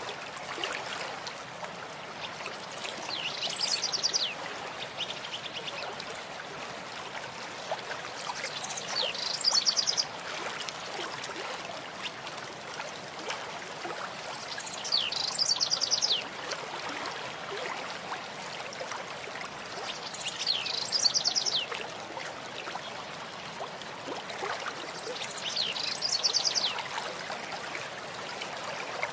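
A stream running steadily, with a songbird singing the same short, rapid phrase five times, about every six seconds.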